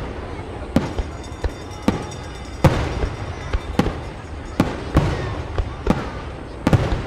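Aerial fireworks shells bursting in quick succession: about ten sharp booms at uneven spacing over a low rumble, the loudest almost three seconds in.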